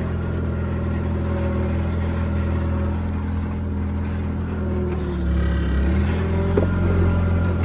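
A machine engine running steady; about five seconds in its pitch dips and it runs lower and slightly louder, as if pulling down under a hydraulic lifting load.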